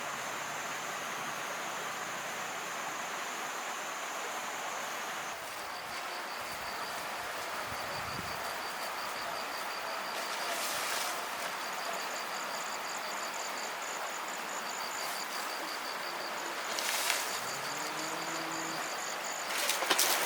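Insects trilling in steady, high-pitched pulses over a constant outdoor hiss, one song giving way to another and breaking off and resuming. Near the end come a few sharp knocks or rustles.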